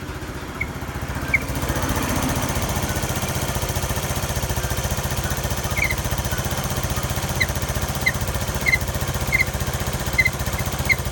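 IRX scooter engine idling with an even, fast pulsing beat. Light, irregular high ticks sound over it, more often in the second half.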